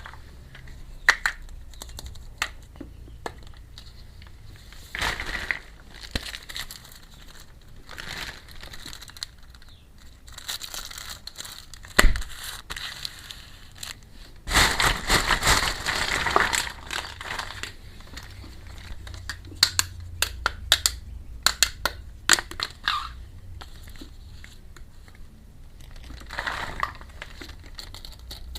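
Hands crinkling and tearing plastic packaging while unboxing miniature toy kitchen sets. There are scattered sharp clicks, with a longer burst of rustling about halfway through and a quick run of clicks after it.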